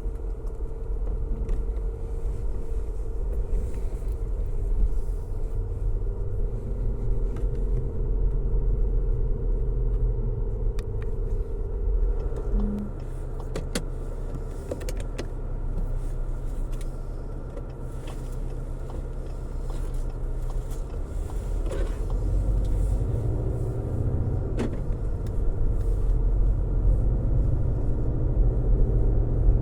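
A car driving steadily on a road: continuous low road and engine rumble with a steady hum. The rumble eases a little about halfway through and builds again toward the end, with a few faint ticks.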